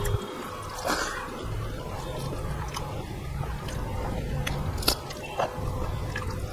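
Close-miked chewing and mouth sounds of a person eating rice mixed with cooked greens by hand, with a few sharp clicks about one second and five seconds in.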